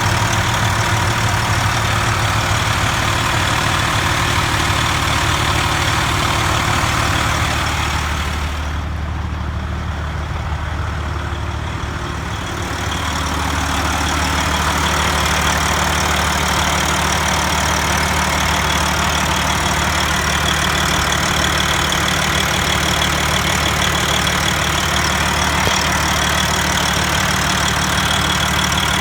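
Detroit Diesel 14-litre truck diesel engine idling steadily, with a metal-to-metal clicking from the exhaust that the owner does not accept as normal, though his shops say it is. The sound turns briefly quieter and duller about nine seconds in, then returns.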